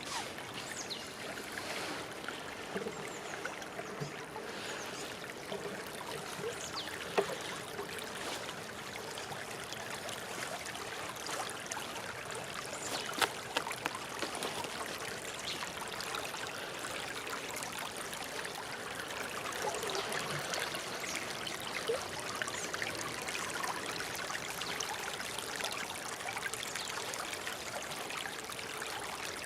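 Water flowing and trickling steadily, like a small stream, with a few sharper splashes.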